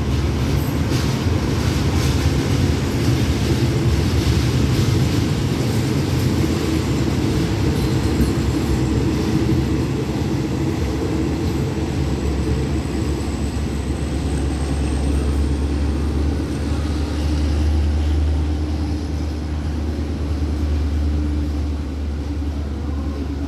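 Passenger train of ordinary train 251 pulling out of the station, its coaches' wheels rumbling steadily over the rails and easing off near the end as the last coach draws away.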